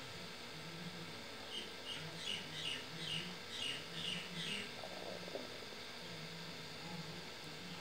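A small bird chirping: a quick run of about eight short, high, down-sliding chirps over some three seconds, starting a second and a half in.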